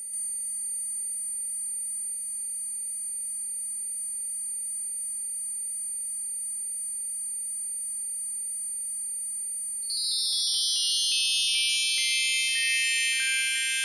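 Synthetic tones from an image converted to sound (image sonification), slowed down with added effects. A low hum and several high held tones sound together steadily. About ten seconds in, a dense cluster of many tones fans out, spreading up and down in pitch and growing slightly louder.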